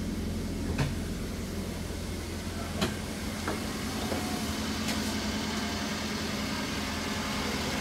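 Toyota Avanza's four-cylinder engine idling with a steady low hum. A few light clicks sound over it.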